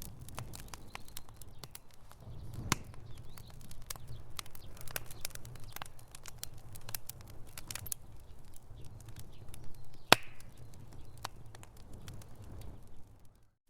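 Wood fire crackling in a fireplace: irregular sharp pops and snaps over a steady low rumble of the flames, with one loud pop about ten seconds in. The sound drops out briefly right at the end.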